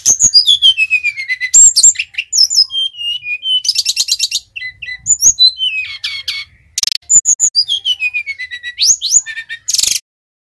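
Sikatan rimba dada coklat (brown-chested jungle flycatcher) singing: long falling whistled slurs mixed with fast high rattling trills, in phrases with short breaks, ending shortly before the close.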